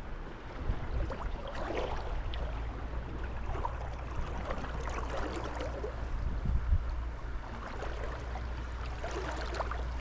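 Flowing river water, a steady rush with small splashes and crackles, over a low rumble of wind on the microphone.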